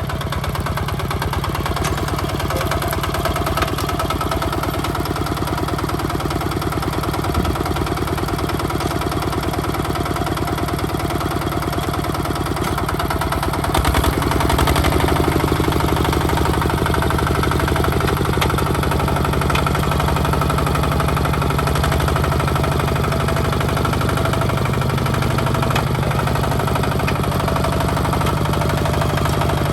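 Hinota HG Gold 155 DI tractor's diesel engine running steadily while plowing mud, with a slight step up in level about halfway through.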